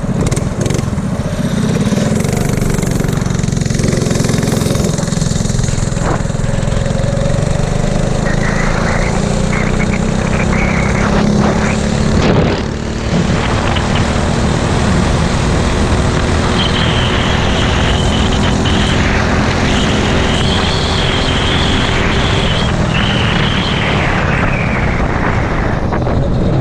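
A 5-horsepower mini bike engine running hard at high revs through a top-speed run, with a short dip in the engine noise about halfway through.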